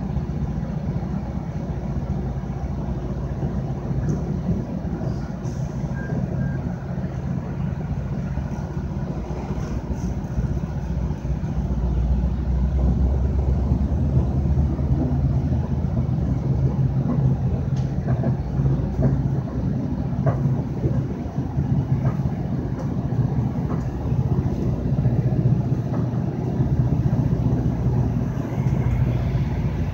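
Steady low rumble and rail noise of a moving passenger train heard from inside the coach, with a freight train of autorack cars passing close alongside. It grows louder about twelve seconds in, with scattered small clicks and rattles.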